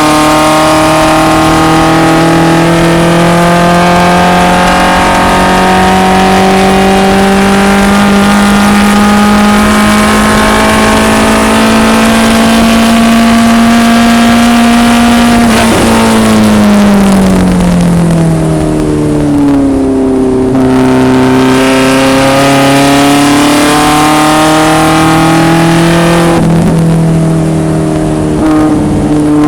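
1974 BMW 2002 racecar's four-cylinder engine running hard, its pitch climbing slowly for about fifteen seconds, then dropping steeply for a couple of seconds before climbing again, with a brief dip near the end.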